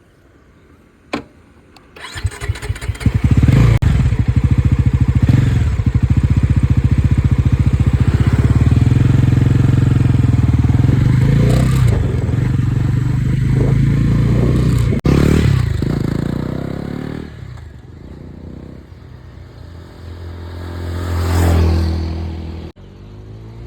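Bajaj Pulsar NS400Z's single-cylinder engine started about two seconds in, then idling loud with short rev blips. It quietens after about 17 seconds, revs once more near the end and cuts off abruptly.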